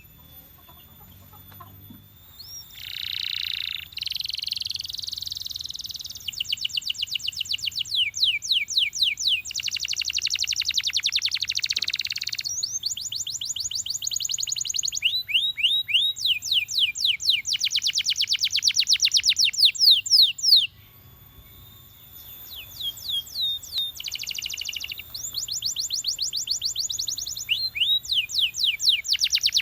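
Domestic canary singing in long rolling trills: runs of rapidly repeated, high, downward-sweeping notes, phrase after phrase, changing speed from one phrase to the next. The song breaks off for about a second around two-thirds of the way through, then starts again.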